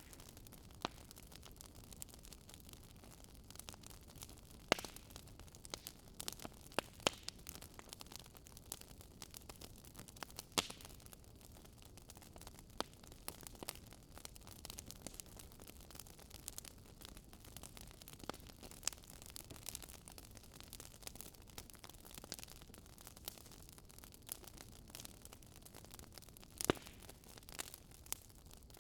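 Wood fire crackling in a fireplace: irregular sharp snaps and pops over a soft, steady low rush, with a louder pop about five seconds in and another near the end.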